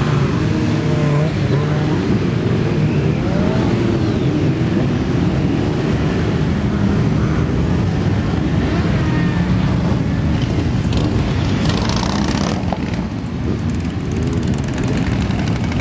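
Many motorcycles riding off one after another, several engines running and revving at once in a loud, continuous mix with pitches rising and falling as bikes pass.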